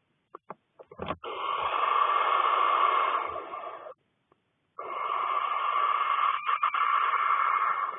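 Barn owl chicks giving their hissing, snore-like food-begging calls: two long rasping hisses with a short pause between, after a few short clicks in the first second.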